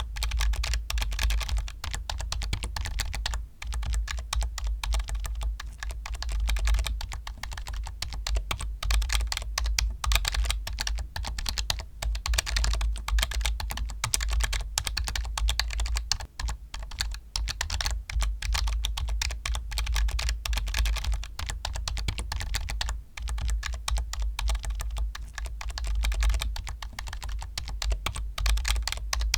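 Computer keyboard being typed on continuously, with rapid dense keystrokes and brief pauses about three and a half seconds in and again about two-thirds of the way through.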